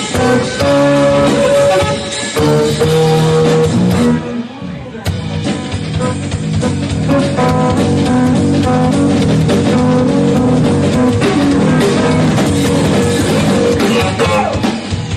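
Live instrumental jazz-fusion band playing, with drum kit and electric guitar: long held melody notes for the first few seconds, a short drop in level about four seconds in, then the full band comes back in with a busy drum groove.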